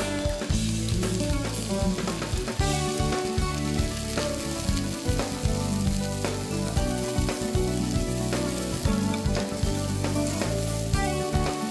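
Bracken, bean sprouts, mushrooms, onion and red pepper sizzling in hot oil in a stainless steel frying pan, with a steady frying hiss, as they are stirred and tossed with chopsticks.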